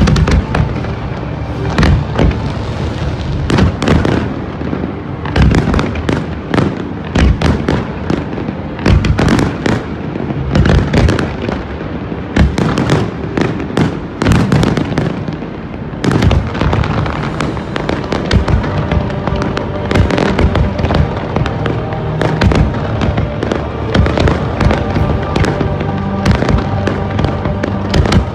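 A fireworks display, shells bursting in quick succession with many sharp bangs throughout, over music playing.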